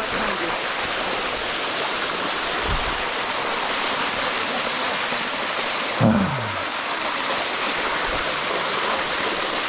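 Waterfall water rushing steadily. About six seconds in there is a brief low sound that slides down in pitch.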